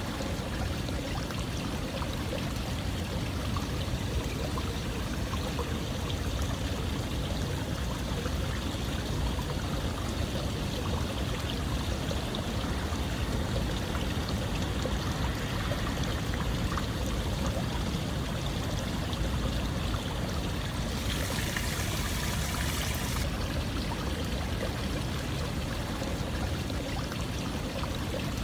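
Steady running water, a continuous even rush. About three quarters of the way through, a brighter, hissier splash lasts about two seconds.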